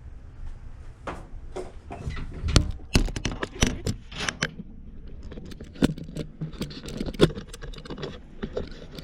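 A run of irregular clicks, taps and rustles, as of objects being handled, some louder and closer together around the middle.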